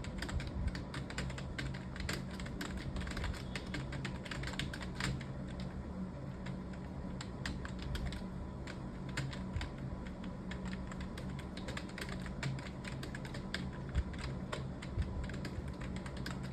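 Fast, continuous typing on a computer keyboard: a dense run of key clicks, with a steady low hum underneath.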